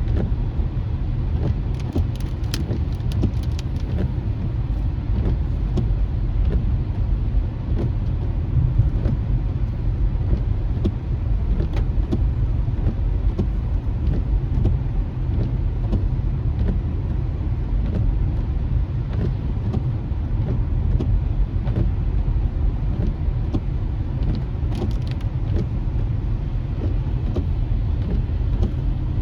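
Car driving, heard from inside the cabin: a steady low rumble of road and engine noise, with a few brief clicks about two seconds in and again near the end.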